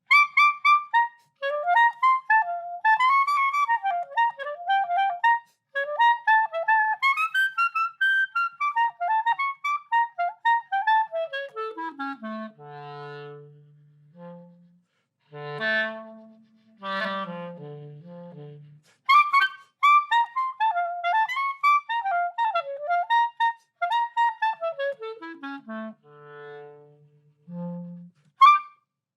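Clarinet playing fast, high, twittering runs like a bird, then gliding down into low, held 'moo' notes like a cow. The high twittering comes back about two-thirds of the way through and slides down to low cow notes again near the end.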